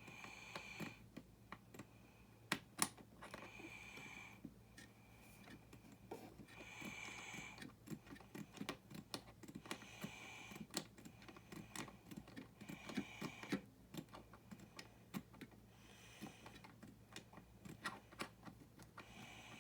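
Small plastic building-brick parts clicking and tapping as they are handled, with a short scraping sound about every three seconds.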